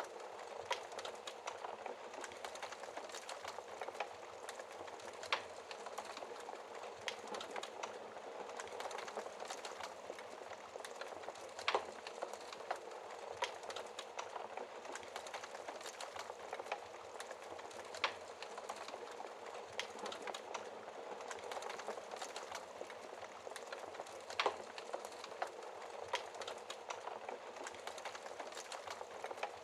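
Wood fire burning in a fireplace: a steady crackling hiss with irregular sharp pops and snaps of burning logs, a few louder pops standing out.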